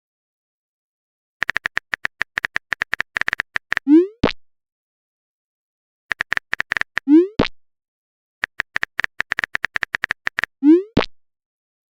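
Chat-app sound effects: a run of quick typing clicks, then a rising pop like a message arriving, heard three times with short silences between.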